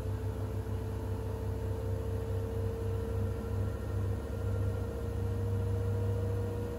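Siemens iQ700 WG56B2090 front-loading washing machine running: a steady low rumble with a motor whine that rises slowly and evenly in pitch.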